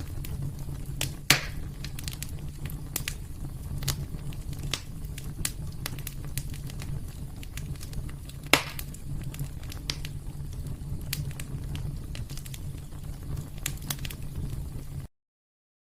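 Wood fire in a fireplace crackling, with a steady low rumble under scattered sharp crackles and two much louder pops, one about a second in and one about halfway through. The sound cuts off suddenly near the end.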